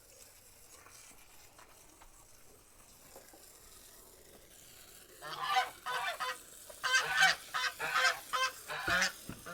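Backyard poultry calling, a quick run of loud repeated calls that starts about five seconds in after a faint stretch.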